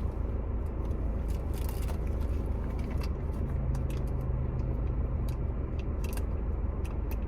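Eating from takeout food and packaging: scattered small clicks, crackles and bites over a steady low rumble.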